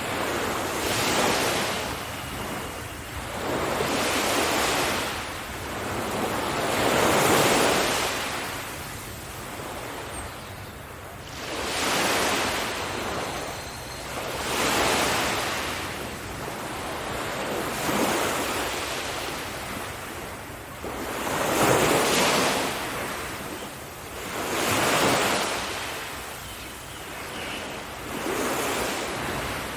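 Sea waves breaking on a beach: each swell of surf rises and falls away, about every three to five seconds, with some wind.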